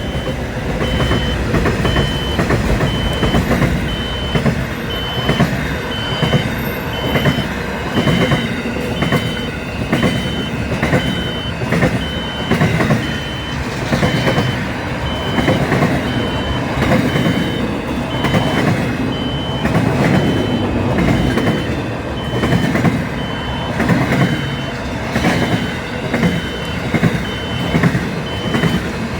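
A train running past with a rhythmic clatter that swells every second or so, while a high electronic beep repeats steadily on and off.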